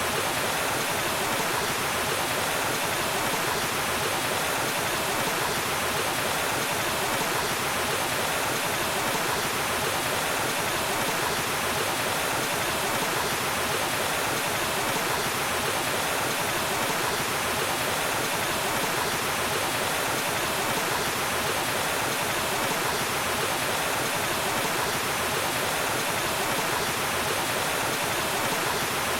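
Waterfall: a steady, unbroken rush of falling water with no changes in level.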